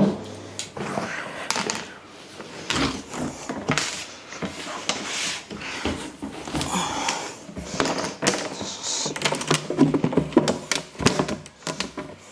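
Irregular clicks, knocks and clatter of plastic fridge shelves and drawer parts being handled and fitted into place.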